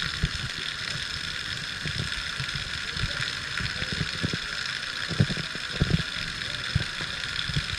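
Heavy rain falling steadily, with irregular low thuds of drops striking close by.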